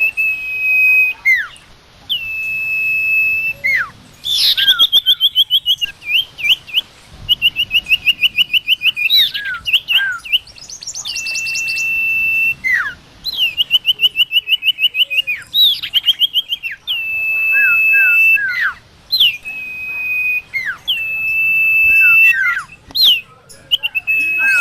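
A bird known in Indonesia as the sirtu or sirpo singing loudly and continuously. Its song mixes steady held whistles, fast rattling trills and short falling notes, repeated over and over.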